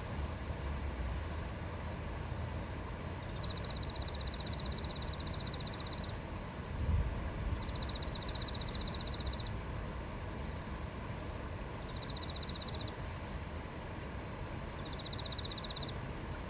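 Steady rush of a shallow river running over stones, with a high, rapidly pulsed trill from a small creature sounding four times, each lasting one to two and a half seconds. A brief low thump about seven seconds in.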